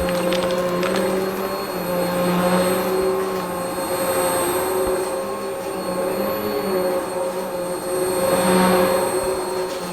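Upright vacuum cleaner running steadily with a high motor whine, its sound swelling and easing every few seconds. A few faint ticks come in the first second.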